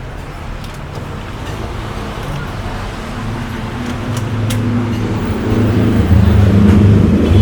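Road traffic on a busy street, with a motor vehicle's engine hum growing steadily louder through the second half as it comes close.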